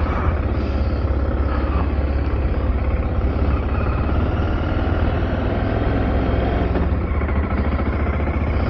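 Car driving at a steady speed: a continuous low rumble of engine and road noise, heard from inside the cabin.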